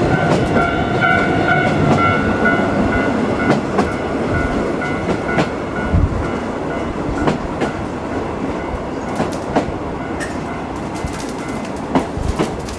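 Running noise inside a 50-series passenger coach hauled by a DD51 diesel locomotive, with occasional wheel clacks over rail joints. A level-crossing warning bell rings as the coach passes the crossing and fades out about halfway through.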